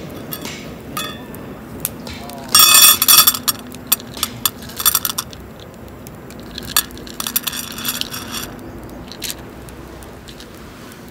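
Metal camping gear being handled: clinks and rattles of metal pieces knocking together, loudest in a short clatter about two and a half seconds in, with further clinking around five seconds and again around seven to eight seconds.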